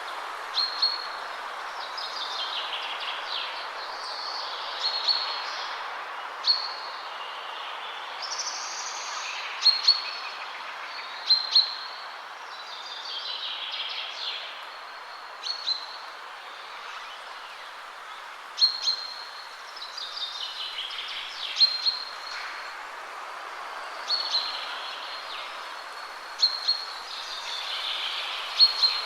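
Songbirds singing short, repeated phrases of sharp high notes and falling trills every couple of seconds, over a steady rush of wind through trees.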